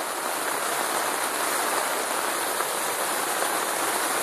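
Steady rain pouring down, heard from inside a tent.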